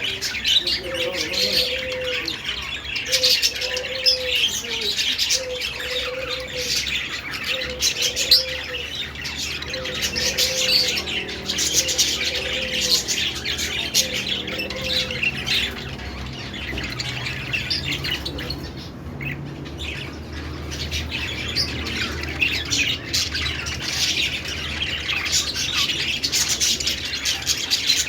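A flock of budgerigars chirping and warbling continuously, many high, quick calls overlapping. For the first half a lower short note repeats about once a second beneath the chatter.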